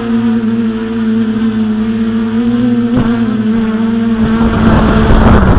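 Quadcopter's electric motors and propellers humming at a steady high pitch. A rough rushing noise swells over the last second or so and is loudest there, and the hum drops in pitch at the very end.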